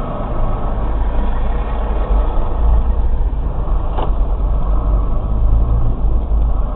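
Steady low rumble of a car's engine and road noise heard from inside the cabin, with one sharp click about four seconds in.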